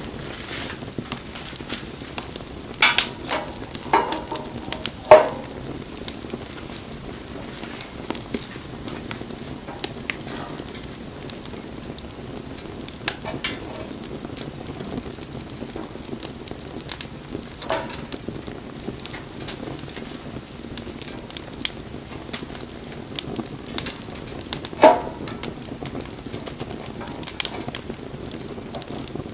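Wood fire burning: a steady hiss with frequent small crackles and a few sharp, louder pops, the biggest about five seconds in and another near the end.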